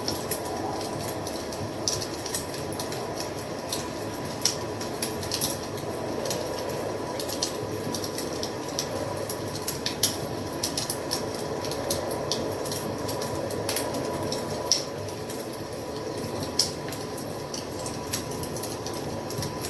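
Wood fire burning with a steady low rush and irregular sharp crackles and pops several times a second, plus a faint steady high tone.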